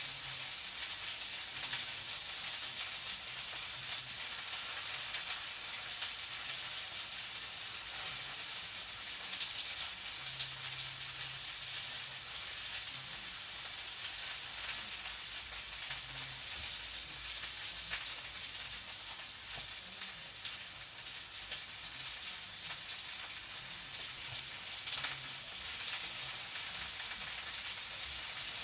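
Food frying in a pan: a steady sizzle with scattered small crackles.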